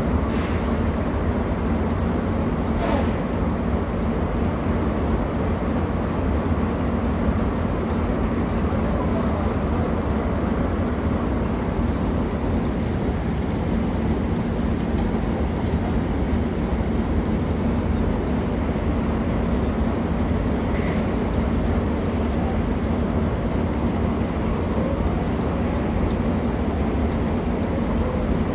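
Honda Gold Wing GL1500's flat-six engine idling steadily, with a few faint clicks over it.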